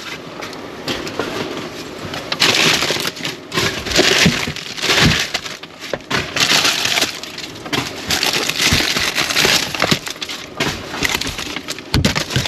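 Irregular crinkling and crunching from plastic-wrapped food packages being rummaged through and handled, louder in bursts a few times.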